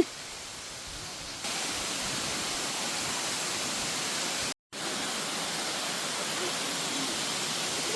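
Steady rushing noise with no pitch, stepping louder about a second and a half in and cutting out for an instant near the middle.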